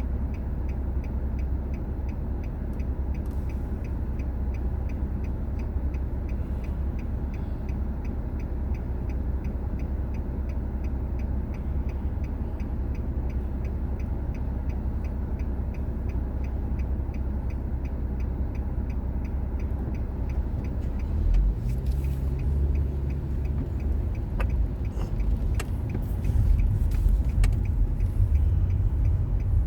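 Car driving, heard from inside the cabin: a steady low engine and road rumble that grows louder about two-thirds of the way through, as if pulling away or speeding up. A faint, regular ticking runs underneath.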